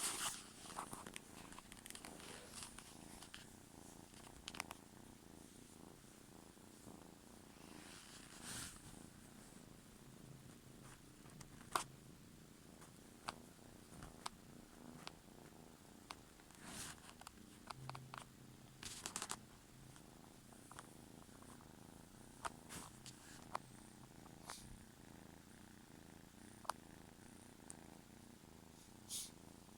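Kitten purring steadily and faintly, with scattered short clicks and rustles.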